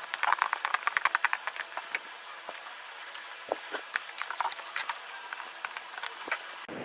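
Small plastic Kinder Surprise toy airplanes clicking and rattling as they are handled and fitted into their cardboard collection box: a quick run of light clicks in the first couple of seconds, then scattered single clicks.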